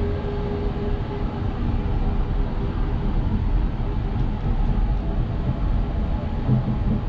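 Passenger train coach running along the track: a steady rumble of wheels on rails, heard from inside the coach.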